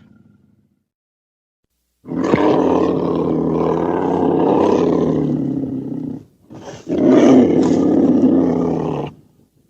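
Two long animal-like roars, made as a werewolf sound effect. They start about two seconds in: the first lasts about four seconds, and after a short break a second lasts about two seconds.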